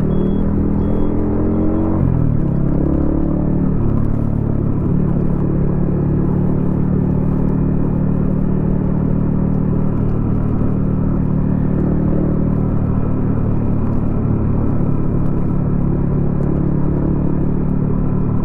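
Yamaha XSR155's single-cylinder engine running through a DIY exhaust while riding. The pitch falls and rises in the first few seconds, then holds steady.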